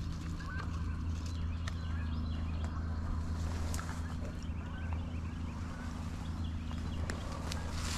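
A steady low droning hum runs throughout, with small birds chirping faintly and a few light ticks.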